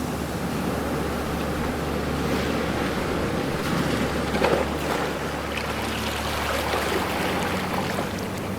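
Ocean waves washing ashore, one wave swelling and breaking about halfway through, over a steady low hum.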